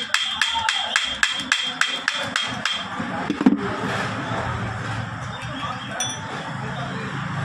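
A hammer taps metal in a quick even run, about three or four blows a second, and each blow rings. The run stops about three seconds in. A single heavier blow follows, then a steady rustling noise.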